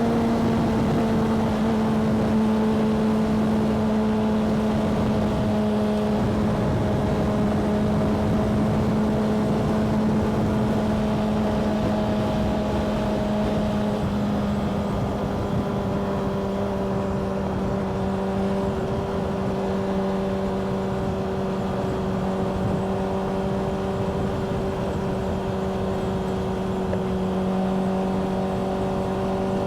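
Motorcycle engine running at a steady cruising pace, its pitch easing slowly lower, over a constant rush of wind and road noise.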